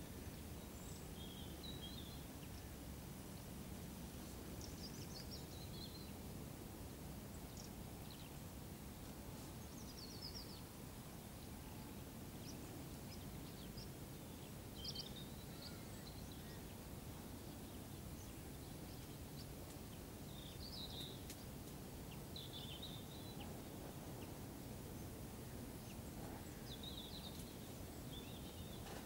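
Small birds calling with short, high chirps every couple of seconds over a steady, low outdoor background hum.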